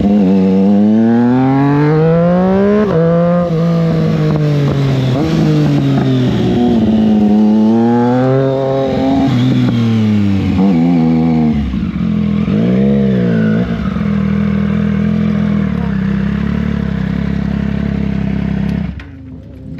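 Triumph Street Triple 660 S inline-three engine under way, its pitch climbing and falling again and again as the rider accelerates and shifts through the gears, with a short rise and fall a little past the middle. It then runs at a steady pitch for several seconds before the sound drops away suddenly near the end.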